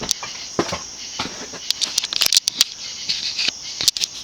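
TAT 'UFO' industrial ceiling fan running at medium-low speed, with irregular sharp clicks and ticks over a steady high hiss.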